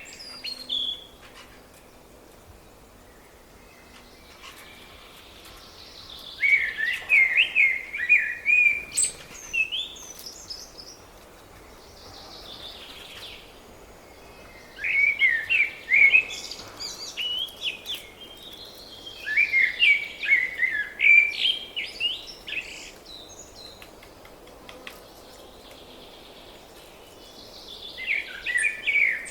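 A songbird singing in separate warbling phrases of two to three seconds each, repeated every several seconds, with quiet gaps between.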